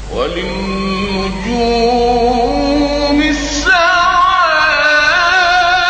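Male voice singing an Islamic ibtihal in long, ornamented, wavering notes. A louder, higher phrase starts a little past halfway, carrying the words 'wa lil-nujum'.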